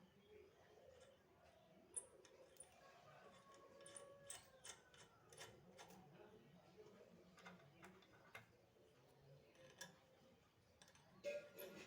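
Near silence with faint, scattered small clicks and taps, irregularly spaced, with a few sharper clicks about two seconds in and near the end.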